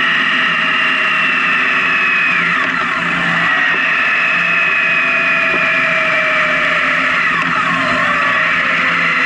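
Honda Gold Wing touring motorcycle cruising on a highway: steady engine and wind noise, with the engine pitch slowly falling and dropping more sharply a couple of times.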